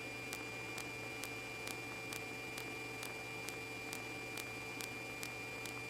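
Steady hiss and electrical hum with faint regular ticks about twice a second: the background noise of a police radio channel between transmissions.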